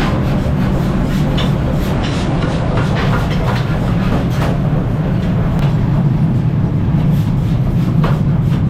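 Machinery running with a steady low rumble, with irregular clanks and knocks through it.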